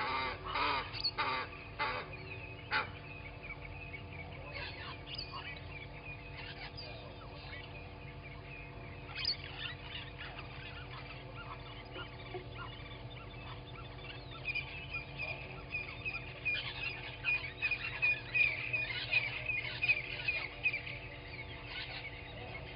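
Wild birds calling in the morning: a few loud calls in the first three seconds, then a fast run of repeated high notes from about fifteen to twenty-one seconds in, over a faint steady hum.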